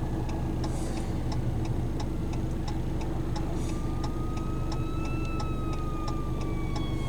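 Emergency-vehicle siren in a slow wail, faint at first: its tone comes in a little over halfway through, rises slowly, then glides down. Heard from inside a moving car over a steady low engine hum and a regular ticking.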